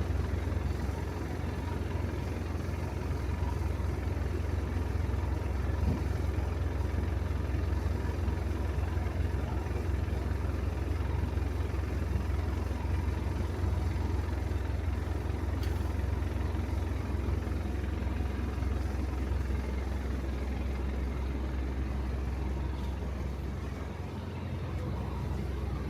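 A vehicle's engine running steadily with a low rumble.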